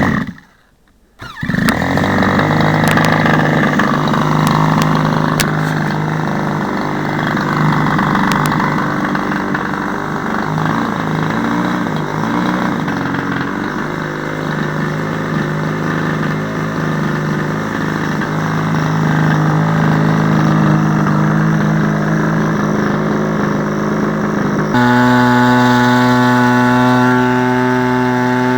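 CRRC Pro 26i, a 26cc single-cylinder two-stroke petrol engine on a quarter-scale RC model plane, on its first run: it fires briefly, catches about a second in and runs with an uneven, wandering note. Near the end it settles into a steadier, louder run.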